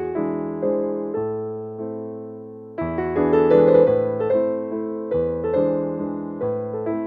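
Background music: soft solo piano playing gentle chords and melody, the notes decaying after each strike, with a louder chord about three seconds in.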